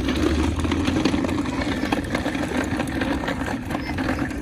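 A vehicle's motor running steadily, with many light clicks and rattles over the hum.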